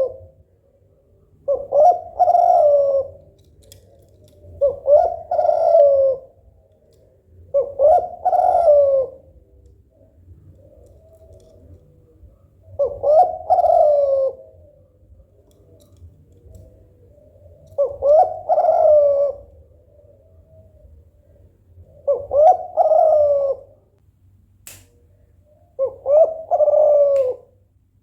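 Female spotted dove (tekukur) in breeding condition giving its cooing 'bekur' call, which is meant to call a male into singing. About seven calls of roughly a second and a half each come every three to five seconds.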